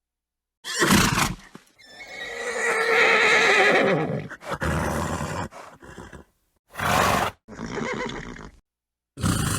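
A horse whinnies once, a long quavering call of about two seconds, among several short noisy snorts before and after it.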